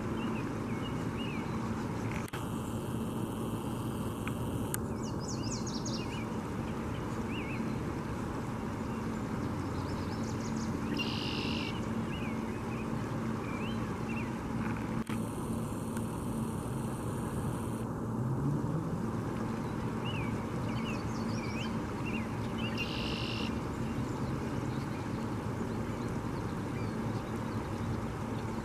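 Small birds chirping again and again over a steady low outdoor rumble, with a short buzzy call about 11 seconds in and again about 23 seconds in.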